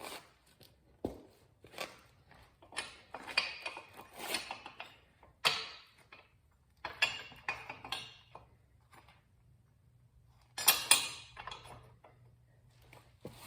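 Metal tools and parts clinking and knocking, on and off, as a motorcycle's rear wheel assembly is fitted, with the loudest clatter about eleven seconds in.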